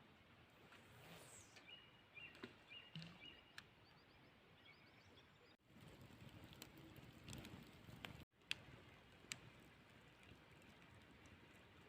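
Near silence: faint outdoor ambience with a few faint high chirps in the first few seconds and scattered small clicks. The sound cuts out completely twice, briefly, near the middle.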